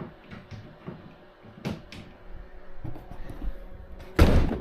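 Light clicks and knocks, then one loud, short thump about four seconds in: a car door being shut.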